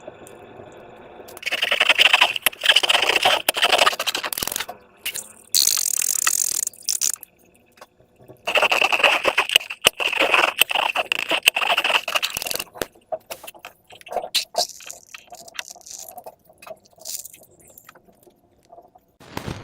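Slime being squeezed and stretched by hand, crackling with dense, rapid clicks in a few bursts of several seconds each, then scattered single clicks near the end.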